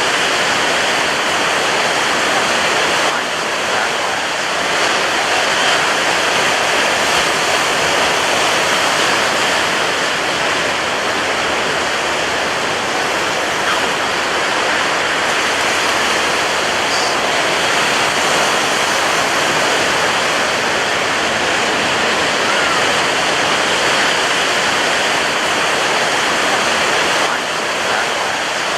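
Ocean surf breaking on a beach: a steady, dense roar of waves with little rise and fall.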